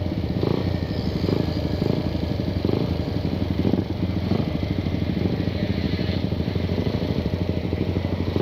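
Motorcycle engine running steadily at low revs through a loud, free-flowing exhaust, with an even throbbing pulse.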